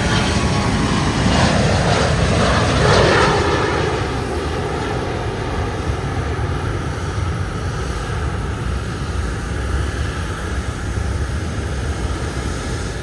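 Aircraft engine noise from a plane passing by, loudest in the first few seconds and sweeping down in pitch, then easing into a steady low rumble.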